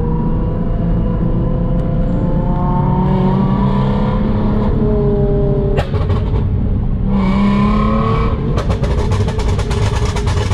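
Car engine revving, its pitch rising several times, then a rapid run of sharp pops and crackles near the end.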